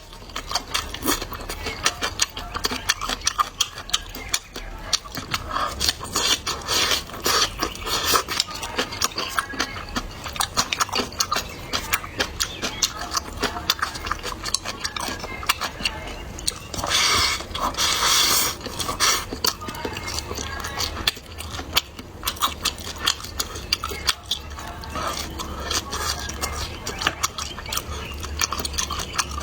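Close-miked eating: a steady run of small wet clicks and smacks of chewing, with the occasional tap of utensils on dishes and a denser, noisier stretch about two-thirds of the way through.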